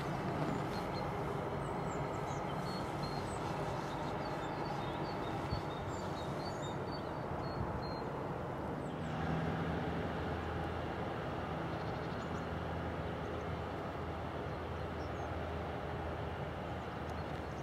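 Distant passenger train running across a stone railway viaduct: a steady low rumble. Small birds chirp over it during the first half.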